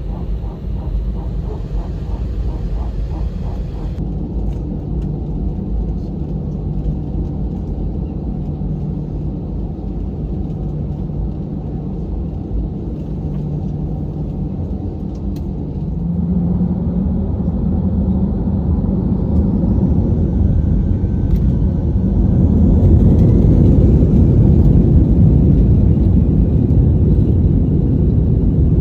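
Airbus A320 cabin noise: a steady low engine rumble, then a little past halfway the jet engines spool up with a rising whine and the rumble grows markedly louder, as when thrust is set for the takeoff roll.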